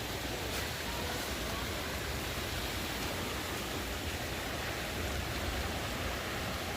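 Steady rush of fast-moving floodwater from a creek swollen far above its usual level after heavy rain.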